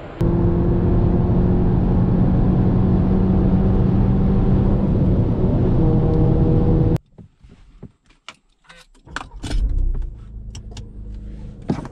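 Audi TT 2.0 TFSI turbocharged four-cylinder with a Supersprint exhaust, running at steady revs for about seven seconds. The sound cuts off suddenly, leaving a few clicks and knocks, and a short low rumble swells about nine seconds in before settling to a quieter, steady engine note.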